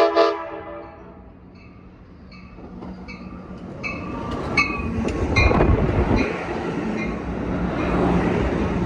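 A train horn gives a short last blast. Then a locomotive bell rings steadily, about one strike every three-quarters of a second, while the rumble of the train on the rails grows louder from about three seconds in.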